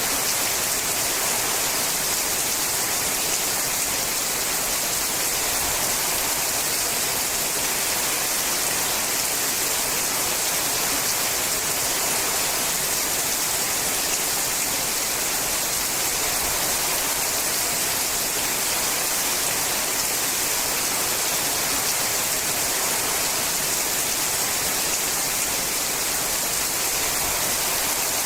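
Steady rain falling on a sheet-metal roof, an even unbroken hiss with the patter blended into it.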